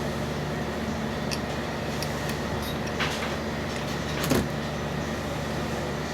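Small parts being handled during air hammer assembly: a few light clicks and one louder knock about four seconds in, over a steady low hum.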